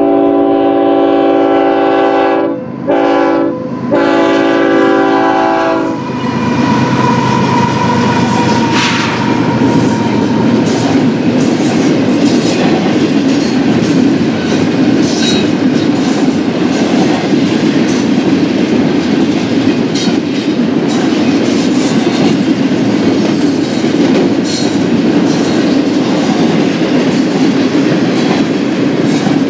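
Freight locomotive's multi-chime air horn sounding for about six seconds, broken twice by short gaps. It is followed by the steady noise of freight cars rolling past close by, their wheels clicking over the rail joints.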